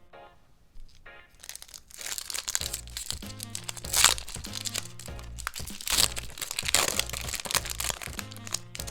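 Crinkling and tearing of product packaging being opened by hand, starting about a second and a half in with sharper rips about four and six seconds in, over background music.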